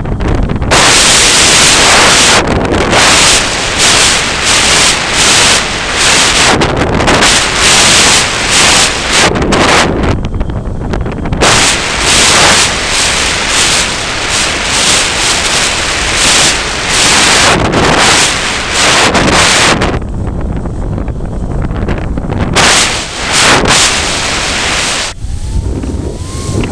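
Strong gusty wind buffeting the microphone: a loud rush that swells and drops every second or two, easing off for a moment about ten seconds in and again past twenty seconds.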